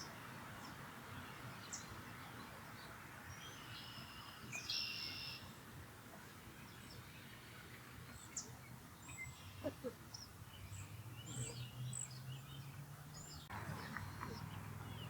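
Scattered high-pitched bird chirps and short calls, with a quick run of repeated notes about five seconds in, over a steady outdoor background hiss and a low hum.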